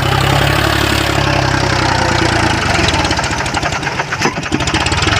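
John Deere 5045 D tractor's three-cylinder diesel engine running steadily, then about halfway through turning to a rhythmic, knocking chug for a couple of seconds.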